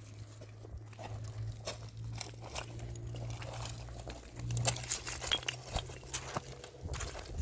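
Irregular crunching and clicking sounds over a low steady hum that stops near the end.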